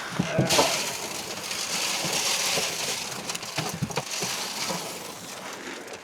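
Dry livestock feed pouring from a bucket into a feeder, a steady rattling hiss that builds about half a second in and tails off near the end.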